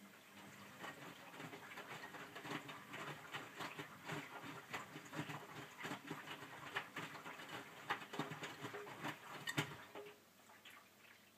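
Miele W562 washing machine drum turning during the main wash, wet laundry tumbling and sloshing with irregular patter and clicks. It stops about ten seconds in.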